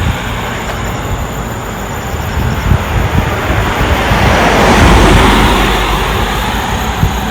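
A vehicle passing by: a rushing sound that swells to its loudest about five seconds in and then fades, over a steady low rumble.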